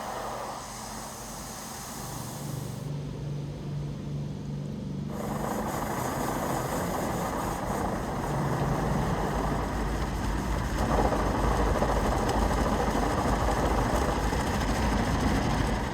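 Drive-through automatic car wash running, heard from inside the car: a continuous rushing, spraying noise with a low rumble. It thins out briefly about three seconds in, then builds and grows louder about eleven seconds in.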